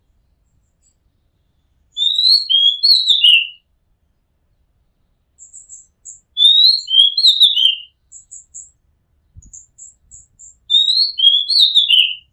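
Oriental magpie-robin singing: the same short whistled phrase of rising and falling notes, about a second and a half long, repeated three times with pauses of a few seconds. Faint high chips fill the gap between the second and third phrases.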